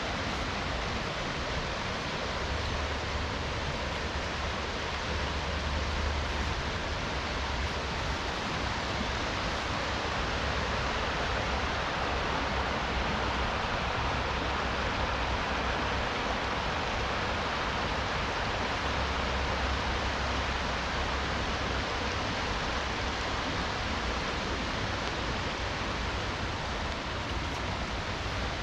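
Steady rush of river water, an even wash of noise without a break.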